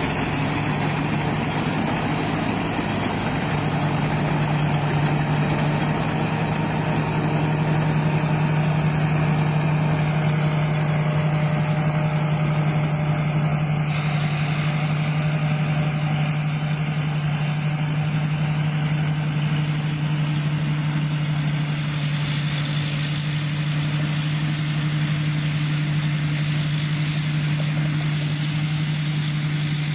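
Rice combine harvester running steadily: a constant engine hum with a thin, high whine above it.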